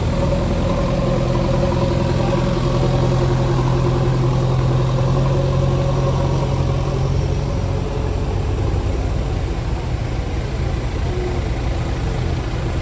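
Bulldozer's diesel engine running steadily, its strong even hum fading into a rougher, less even sound about seven seconds in.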